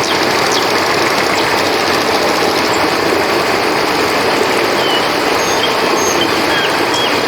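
A river flowing with a steady, even rush of water, with scattered short high chirps over it.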